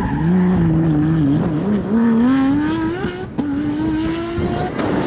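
Porsche 997 GT3 rally car's flat-six engine accelerating hard, the revs climbing, with a sharp upshift about three seconds in and the revs rising again after it.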